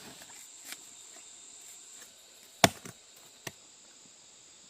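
A few sharp strikes, like blows of a blade or tool, the loudest just past halfway with two lighter ones soon after, over a steady high-pitched drone of insects.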